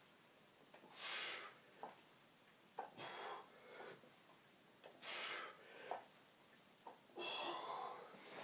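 A person breathing hard with effort: a forceful exhale about every two seconds, with a few short clicks in between.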